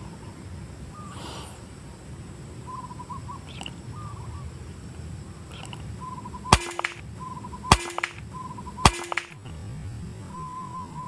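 Birds calling with short repeated notes in a steady rhythm. Midway through, three sharp cracks come about a second apart, and they are the loudest sounds.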